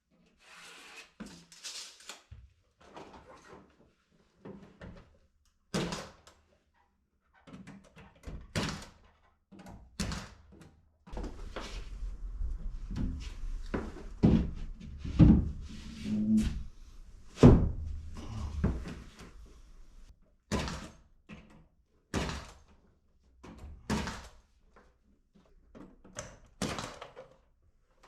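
A series of irregular knocks and thumps, some sharp, with a low steady rumble under louder hits from about eleven to twenty seconds in.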